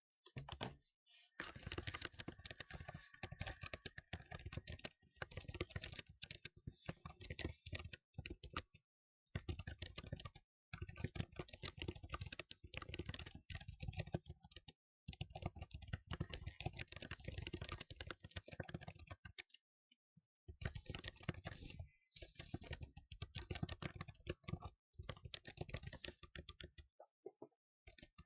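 Fast typing on a computer keyboard: dense runs of rapid key clicks broken every few seconds by short pauses.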